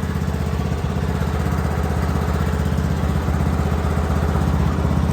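Riding lawn mower engine idling steadily with the throttle turned all the way down to low idle, running on after nearly stalling.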